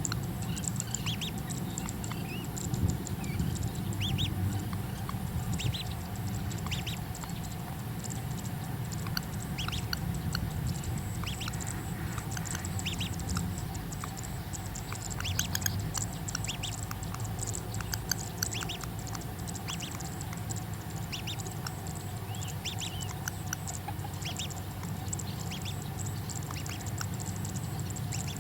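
Oriental pratincole calling at its ground nest: short, sharp rising chirps at irregular intervals, about one a second, over a steady low hum.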